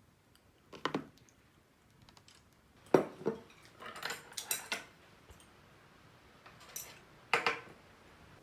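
Tableware being handled: a handful of short clinks and clatters, the loudest about three seconds in and again near the end.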